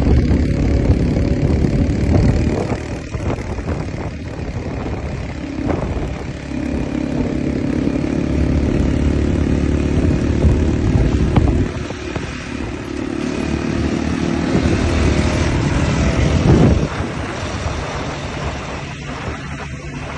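Enduro motorcycle engine running hard, its revs rising and falling repeatedly as the throttle is worked.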